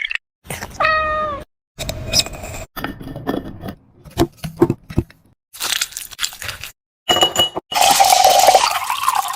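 High-pitched cries from a small pet, heard in several short edited snippets that cut in and out abruptly; one cry about a second in ends with a falling pitch, and another held cry comes near the end.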